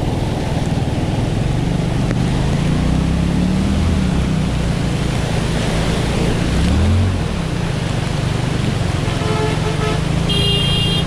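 Motor scooter engine running under a steady hiss, its pitch rising and falling with the throttle in the middle. A vehicle horn honks for about a second near the end.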